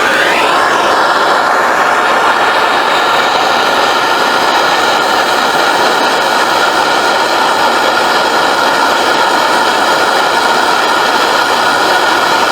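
Handheld gas torch lit with a click, its flame rising in the first second and then burning with a loud, steady hiss, used to heat a rust-seized spark plug so it will come loose.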